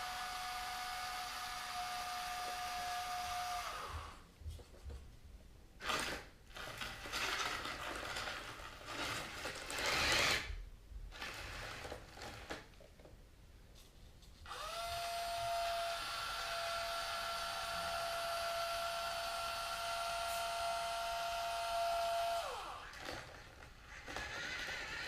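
Small electric motors of a Hobby Engine HE0715 RC track loader whining steadily through their gearing; the whine stops about four seconds in. Then come several seconds of irregular gritty clatter and rustling, with two louder bursts, as the loader works in heavy cat litter. The motor whine returns, rising quickly to a steady pitch, runs for about eight seconds and winds down near the end.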